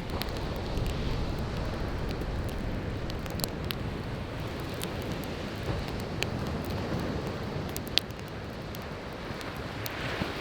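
Wood fire crackling with scattered sharp pops, the loudest near the end, over the steady wash of surf breaking on the shore.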